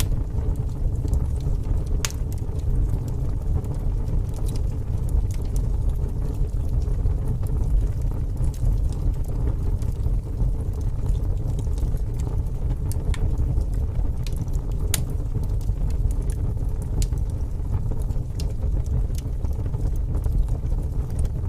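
Wood fire burning in a fireplace: a steady low rumble of flames with occasional sharp crackles and pops, the loudest about two seconds in and again near the middle.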